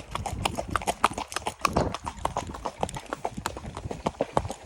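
Hooves of a young dapple-grey mare clip-clopping on a hard street surface in a quick, even rhythm of several beats a second as she is ridden along at her gait.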